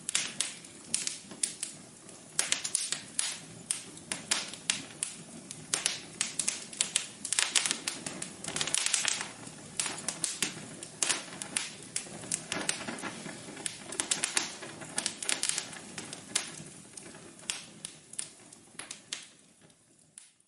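Wood fire crackling in a fireplace: a busy run of irregular sharp pops and snaps over a low hiss, thinning out and fading near the end.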